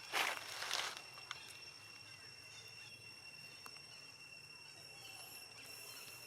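Two footsteps in the first second, then a faint steady high-pitched whine over low outdoor ambience.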